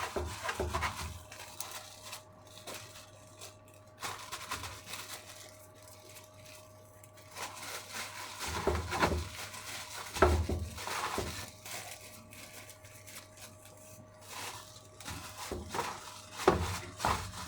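Hands rubbing and patting seasoning into a raw whole chicken: irregular rustling, rubbing and soft slapping handling sounds, busiest about halfway through and near the end, over a faint steady hum.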